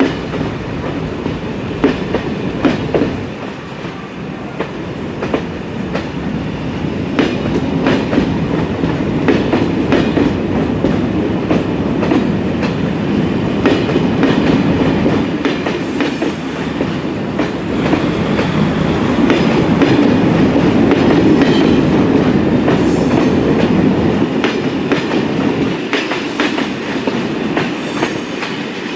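SNCF Corail passenger coaches rolling past, a steady rumble with their wheels clicking irregularly over the track.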